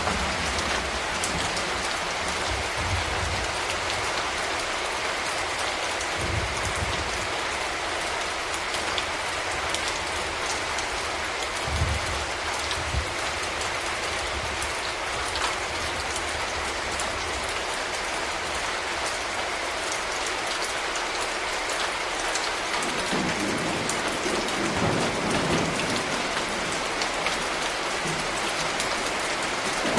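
Steady rain falling, with many separate drops ticking on surfaces. Brief low rumbles come now and then, and a longer, stronger one sets in over the last several seconds.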